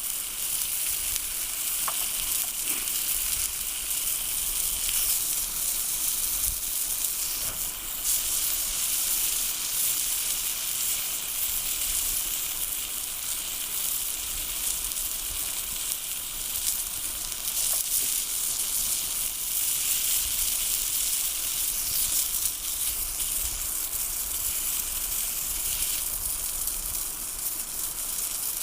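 Food frying in a hot pan, a steady sizzle with occasional small pops.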